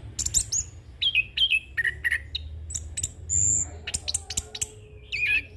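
Chestnut-capped thrush (anis kembang) singing a fast, varied rolling song of chirps, whistles and quick clicks, mixing in mimicked phrases, with a short high held whistle past the middle. A low steady hum lies underneath.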